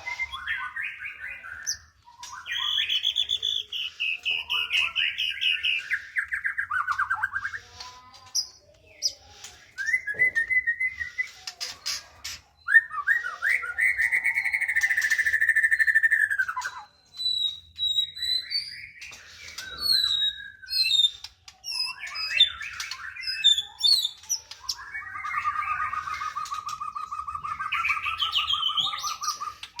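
White-rumped shama singing a long, varied song of clear whistled phrases, quick trills and rising and falling notes, broken by short pauses. Near the end comes a long, even rattling trill.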